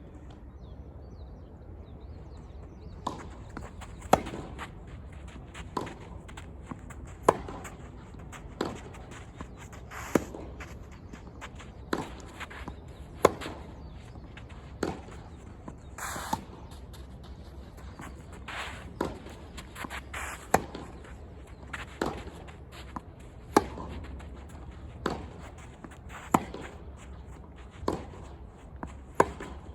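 Tennis rally: racket strikes on the ball about every one and a half seconds, with softer ball bounces and footfalls between them, over a steady low background hum.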